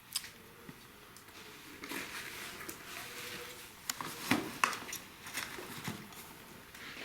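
Quiet room with a few scattered short clicks and knocks, most of them bunched together in the middle, and some faint rustling.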